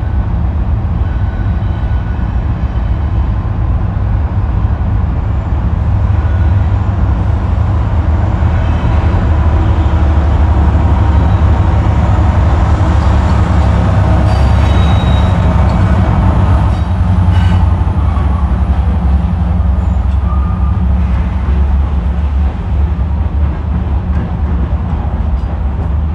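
Diesel freight train running past: a steady low locomotive engine rumble that swells to its loudest around the middle. A few short, high-pitched squeals sound over it.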